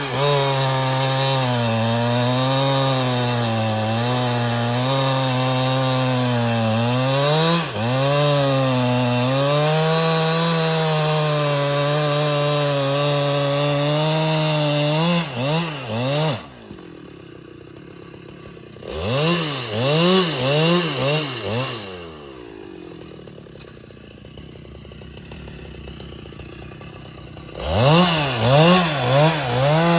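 Husqvarna 395XP two-stroke chainsaw held at high revs, its pitch wavering as it cuts under load. About halfway through it drops to idle, with a few quick throttle blips, then revs up again near the end.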